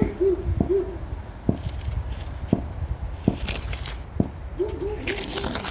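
A roofing tool working old asphalt shingle tabs loose: sharp taps about once a second, with metallic jingling and scraping around the middle and again near the end. A bird hoots softly near the start and again near the end.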